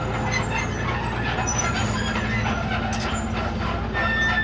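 Komatsu D31PX bulldozer's diesel engine running steadily, with short high squeaks and clinks over it.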